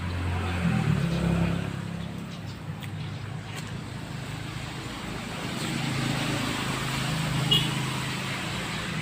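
Motor vehicle engine hum going by, swelling at the start and again in the second half, over a steady hiss, with a brief high chirp near the end.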